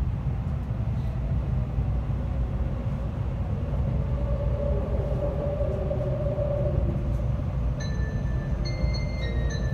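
Steady low running rumble inside a moving N700A Shinkansen car, with a faint whine coming and going in the middle. About eight seconds in, the onboard electronic chime melody starts, the tune that comes before the automatic announcement.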